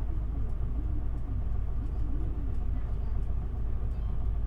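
Interior of an Isuzu Erga city bus standing at a stop, its diesel engine idling with a steady low rumble. A faint regular ticking runs alongside, about one or two ticks a second.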